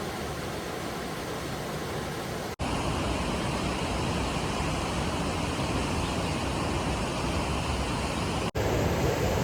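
Rushing mountain river, a steady hiss of water broken by two abrupt cuts, a little louder after the first cut about two and a half seconds in.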